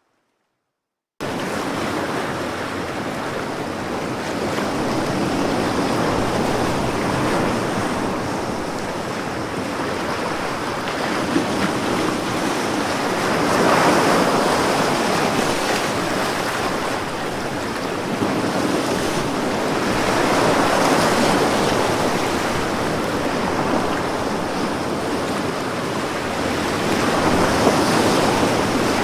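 Ocean waves breaking and washing on a shore, a steady rush of surf that swells and eases every several seconds. The sound cuts in suddenly after about a second of silence.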